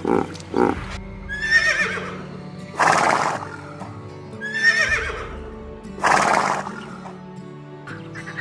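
Horse whinnying twice, each a wavering high call that falls in pitch, and each followed about a second later by a short, loud breathy burst. Background music plays under it.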